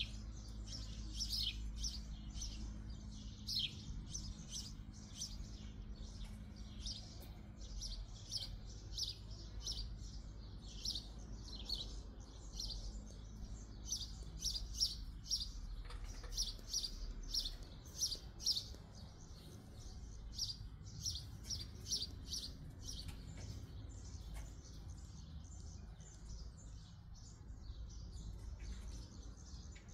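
Small birds chirping continuously: short, high, downward chirps, several a second, over a faint steady low hum.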